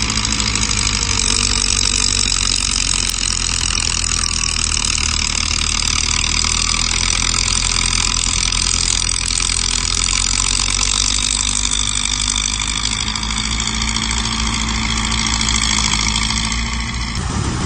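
Heavy diesel earthmoving machinery engine running steadily at a constant pitch, with a high whine over it; the sound shifts abruptly just before the end.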